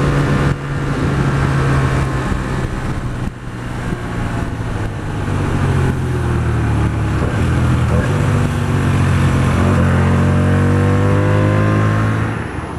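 Hyosung GT125R motorcycle's small V-twin engine running under way with wind rush, heard from the rider's helmet. The engine note dips sharply twice, about half a second and three seconds in, then climbs steadily in pitch and falls away near the end.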